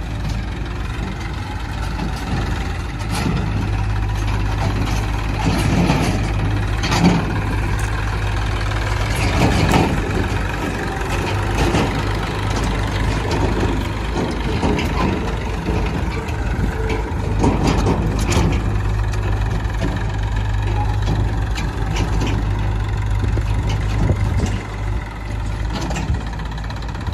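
Heavy diesel engine of a backhoe loader or tractor running steadily at low revs, with occasional short knocks over it.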